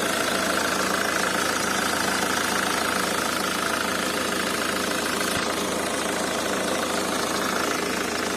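Nissan YD22D 2.2-litre diesel engine idling soon after starting, with a steady metallic knocking clatter that the owner suspects comes from the injectors.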